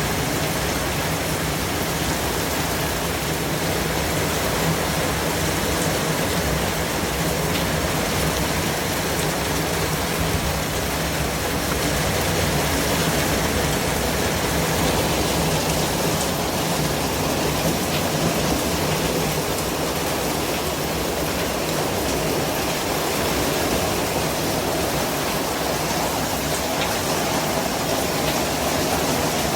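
Continuous white noise: a steady, even hiss with no breaks or changes.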